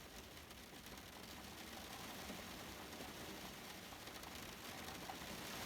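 Light rain falling: a soft, steady hiss.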